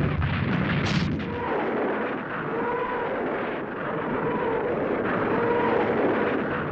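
Soviet Katyusha rocket launcher firing a barrage: a dense, steady rushing roar of rockets, with an eerie screech that rises and falls about every second and a half.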